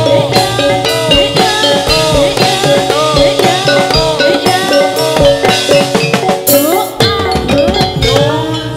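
Loud live percussion-led music for a gedruk dance: rapid drum strokes over steady ringing pitched tones and bending notes. A cymbal crash comes about six and a half seconds in, and the music drops briefly just before seven seconds.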